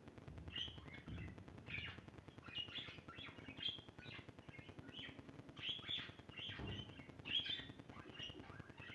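Small birds chirping: short, high chirps coming quickly and irregularly, several overlapping.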